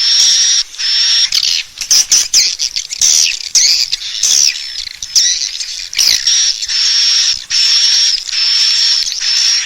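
Swiftlet calling sound, a lure recording for swiftlet houses: high chirping calls, each under a second, repeated back to back, with quicker rising and falling twitters partway through.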